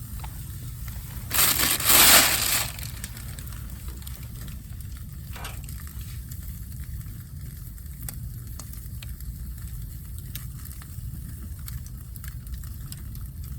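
A loud crunching, crinkling noise lasting about a second and a half, starting about a second in. Then a wood campfire crackles quietly, with scattered small pops.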